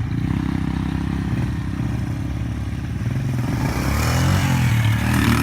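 Dirt bike engine running at a steady low speed, then revved, its pitch rising and falling from about three and a half seconds in.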